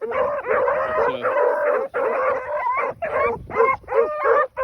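A pack of rabbit hounds giving voice on a rabbit track: several dogs barking and baying at once, their calls overlapping almost without a break.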